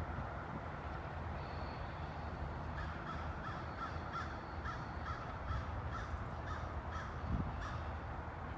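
A bird calling in a quick series of short, repeated calls, over a steady low rumble.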